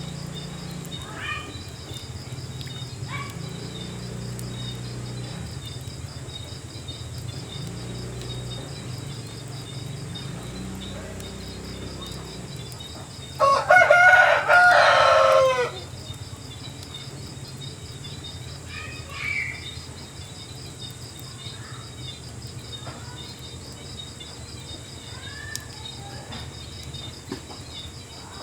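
A rooster crows once, loudly, about halfway through: one call of a little over two seconds that drops in pitch at the end. Under it runs a steady pulsing chorus of insects, with a few faint bird chirps.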